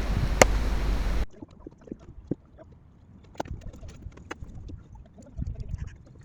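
Wind buffeting the microphone, cutting off abruptly about a second in. Then soft, scattered small clicks and knocks with light water gurgling around a small moored sailboat.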